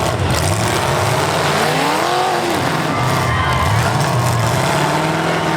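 Engines of V8 full-size demolition derby cars running and revving in a loud, dense mix, with a rise and fall in pitch about two seconds in.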